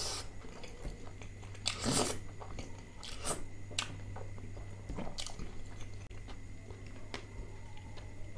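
Close-miked chewing and wet mouth smacks of a man eating butter chicken, with scattered short clicks and a louder smack about two seconds in.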